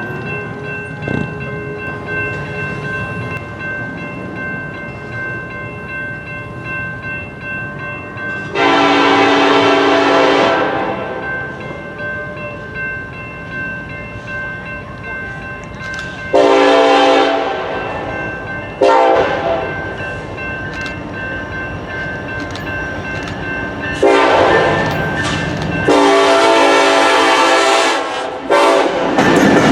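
Freight locomotive horn sounding the grade-crossing pattern for an approaching intermodal train: two long blasts, a short one, then a long drawn-out blast near the end. The train rumbles steadily underneath.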